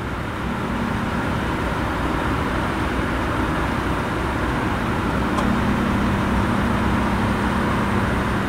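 A Norfolk Southern train approaching: a steady rumble with a faint low engine drone, slowly getting louder.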